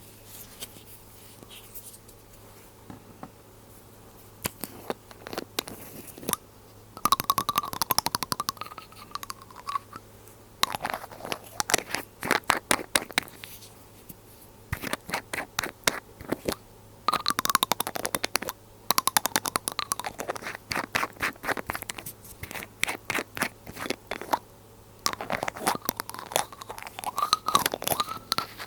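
Glass dropper bottle handled close to the microphone: repeated bursts of dense crackling clicks, some with a wavering squeak in them, after a few quiet seconds.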